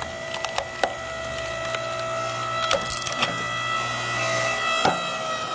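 Log splitter forcing a firewood log apart: the wood cracks and splinters in many sharp snaps over the machine's steady hum.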